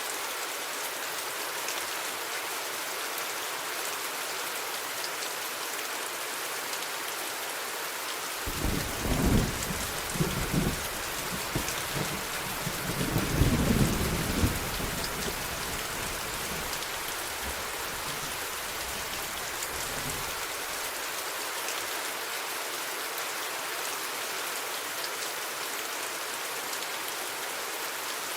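Steady rain hiss with a roll of thunder that starts about a third of the way in, swells in two deep rumbles and dies away well before the end.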